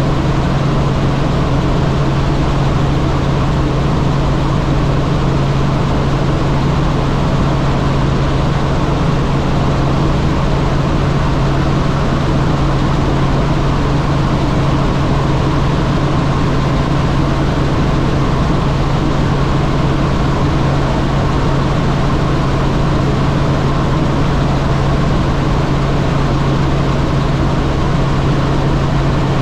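Helicopter in flight, a loud steady drone with a constant low hum over an even rush of noise.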